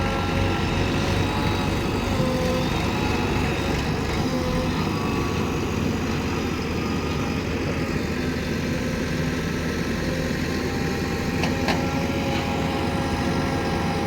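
Diesel engines of a backhoe loader and tractors running steadily while digging earth, with a couple of brief clicks late on.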